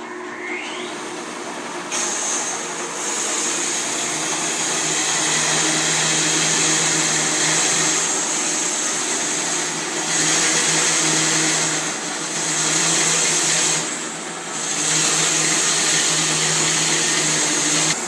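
Bandsaw mill running, a steady mechanical drone with a low hum under it. It steps up in level about two seconds in and dips briefly several times.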